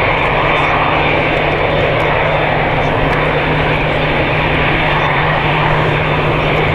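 Jet airliner's engines running loud and steady, a dense even roar with a low steady hum beneath it.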